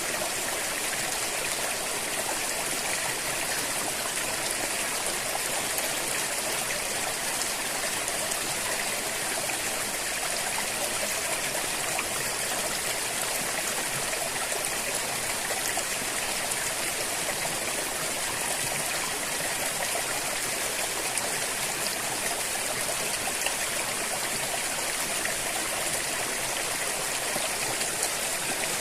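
A river flowing steadily, a constant rushing and trickling of water.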